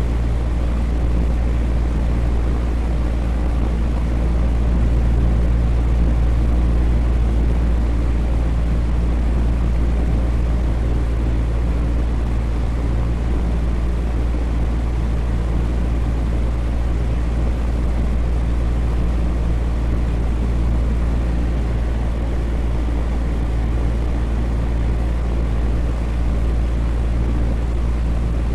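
Electric fan running steadily: a constant low airy whoosh of moving air with a faint low motor hum.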